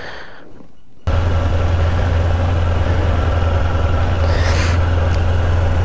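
Kawasaki Ninja 500's parallel-twin engine running steadily while riding, under a rush of noise. It cuts in suddenly about a second in and holds a steady low drone, with a brief hiss about four and a half seconds in.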